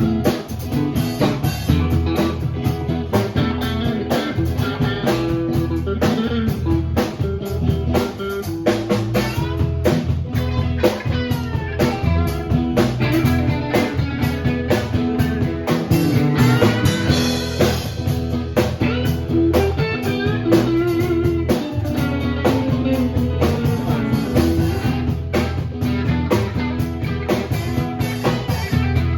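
Live blues-rock band playing an instrumental passage: guitar over a steady drum-kit beat, with bending guitar notes about halfway through.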